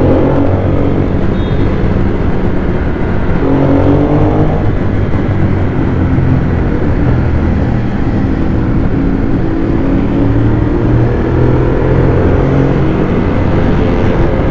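Ducati Monster 821's L-twin engine under acceleration on the road. The revs climb near the start and again about four seconds in, then hold a steady pull.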